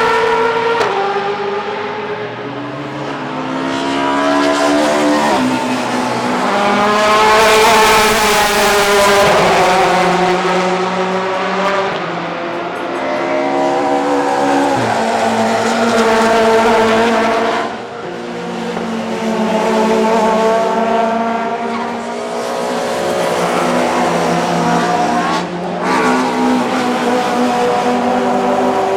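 Classic DTM racing touring cars running past one after another, loud engines rising in pitch under acceleration and dropping sharply at each gear change, several times through.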